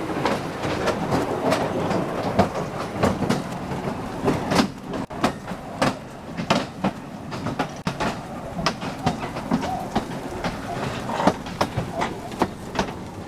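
Katoomba Scenic Railway incline car running on its track: a steady rumble with irregular clacks and knocks from the wheels and rails, a few each second.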